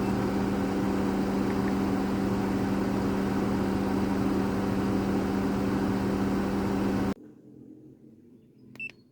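Nissan Almera engine idling steadily with an even hum, cutting off abruptly about seven seconds in. A short sharp click follows near the end.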